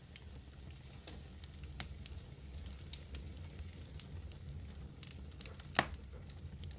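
Medium wood fire burning, with a steady low roar and scattered crackles, and one loud pop near the end.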